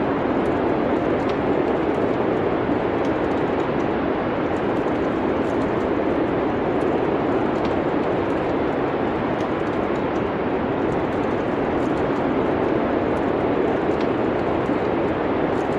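Wood fire crackling, with small pops scattered throughout, over a steady, even rush of wind noise.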